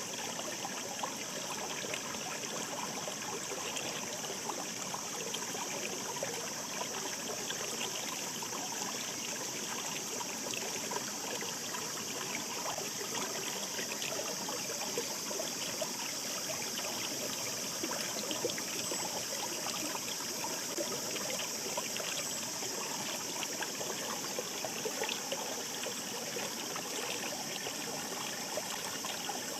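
Shallow mountain stream babbling steadily, a continuous rush of water dense with small bubbling and trickling sounds.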